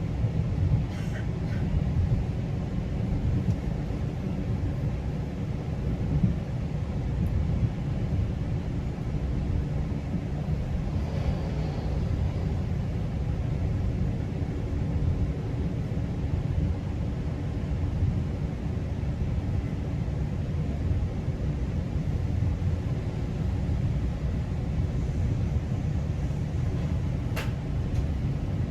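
Steady low rumble of a GO Transit bilevel passenger coach running along the track, heard from inside the car, with a faint hum. There is one short click near the end.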